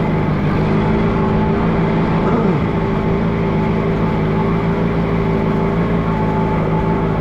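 Allis-Chalmers G tractor's small four-cylinder engine running steadily as the tractor is driven.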